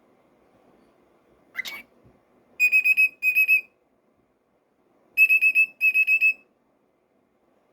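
Cockatiel gives a short rising chirp, then whistles two bursts of quick, high, even-pitched pips a couple of seconds apart, each burst in two groups of three or four.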